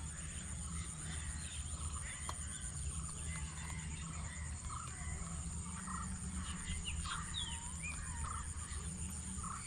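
Scattered bird calls, short chirps and a few quick rising and falling whistles, over a low steady rumble.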